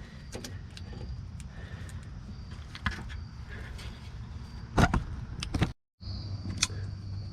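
A few scattered sharp clicks and knocks over a low rumble. The sound drops out briefly a little before six seconds, and a steady hum follows.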